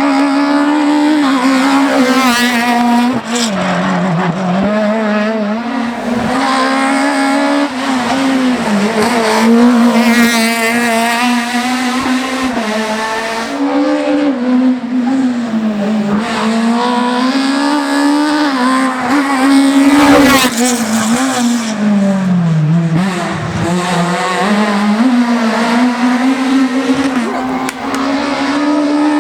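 Škoda Octavia Kit Car rally car's engine run hard at high revs, its pitch held high and then dropping sharply several times as the throttle is lifted and gears are changed, before climbing again.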